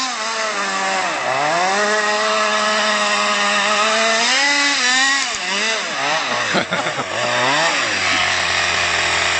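Small two-stroke petrol engine of an FG stadium truck with a Jetpro exhaust, revving up and down, held at high revs for a couple of seconds, blipped a few times, then dropping to a steady idle near the end.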